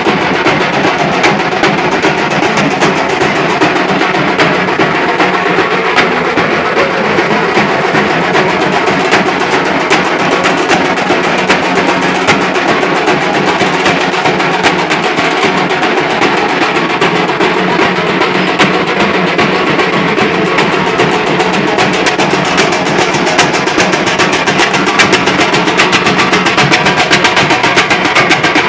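Festival drum troupe drumming a fast, continuous rhythm of rapid, dense strokes.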